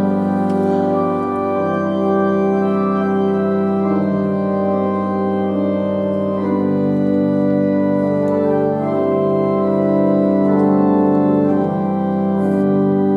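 Organ playing slow, held chords that change every second or two over a sustained low bass note.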